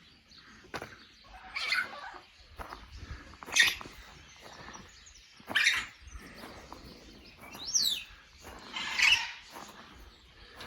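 Birds giving short, separate calls about every two seconds, one of them a whistle that glides up and back down.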